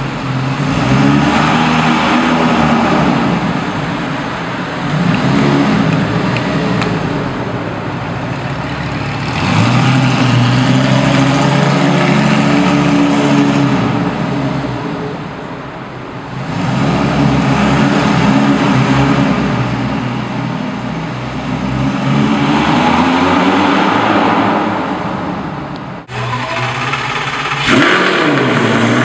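Lamborghini Gallardo V10 engines revving and accelerating in an underground car park, the exhaust note rising and falling in several long surges. Near the end a Gallardo idles and gives one quick rev blip.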